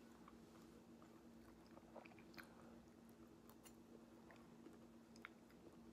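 Faint chewing of a boiled Brussels sprout, with scattered soft mouth clicks, over a low steady hum.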